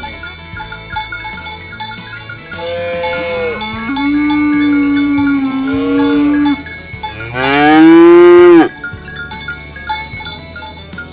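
Cattle mooing twice: a long, low moo starting about two and a half seconds in, then a louder, shorter moo that rises and falls, over a constant tinkling of bells.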